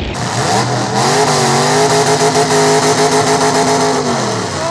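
Demolition derby car engine revving up, held at high revs for about three seconds, then dropping back near the end.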